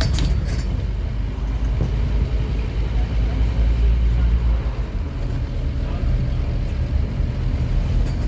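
Scania N230UD OmniCity double-decker bus's diesel engine running under way, a steady low drone that swells for a couple of seconds and then eases off.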